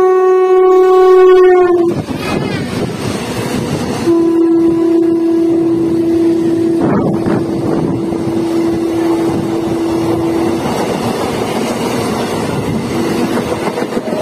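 Train horns blowing while a MEMU electric multiple unit passes close alongside on the next track. A long steady horn note cuts off about two seconds in, giving way to the rush and rattle of the passing coaches. A second long horn note follows from about four to ten seconds in, with a short toot near the end.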